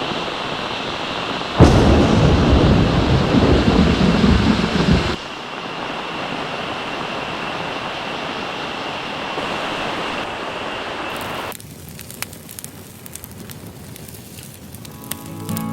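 Heavy rain falling steadily. About a second and a half in, a loud, deep rumble of thunder breaks in and lasts some three and a half seconds. From about eleven seconds the rain is lighter, with scattered sharp ticks.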